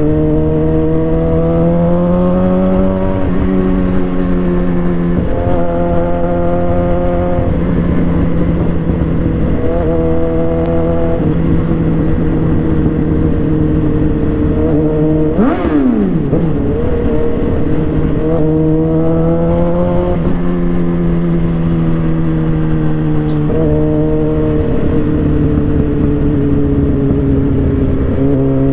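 Suzuki GSX-R 750 inline-four engine pulling through the gears under way. Its pitch climbs under throttle and drops back at each shift, over a steady rumble of wind. About halfway through, a short sharp falling whine cuts across.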